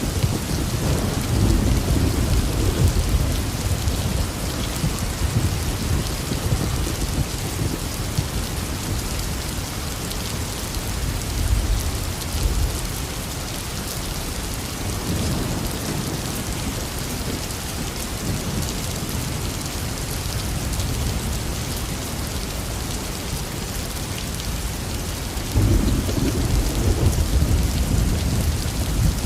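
Heavy, steady rain falling with thunder rumbling: low rolls of thunder swell near the start, twice in the middle, and a louder one comes in near the end.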